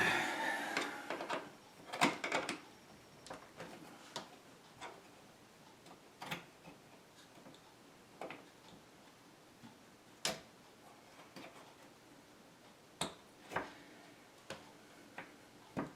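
Scattered light clicks and knocks, a second or two apart, of a dishwasher's door spring and hinge parts being handled and unhooked.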